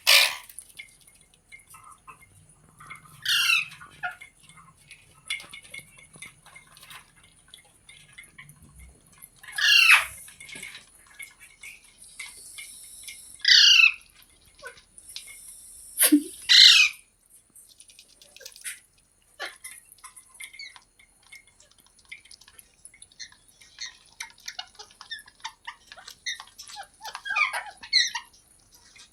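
Green parrot (Indian rose-ringed parakeet) squawking: loud, harsh screeches every few seconds, with soft chirps and chatter between them that grow busier near the end.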